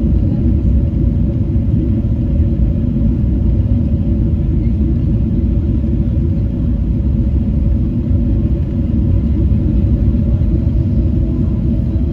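Steady low rumble of a Boeing 777-300 heard from inside the cabin as the airliner rolls on the ground after landing. A faint steady hum runs over it and rises slightly in pitch near the end.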